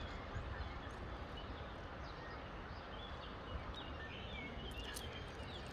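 Steady outdoor background noise with a low rumble, and faint, short bird chirps scattered through it.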